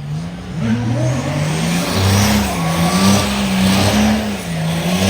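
Diesel pickup truck engine revving up and down repeatedly, about once a second, with a steady hiss over it.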